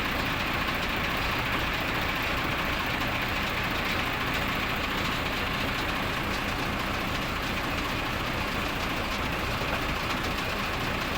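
Engine running steadily without changing speed, a low hum under a constant rushing noise.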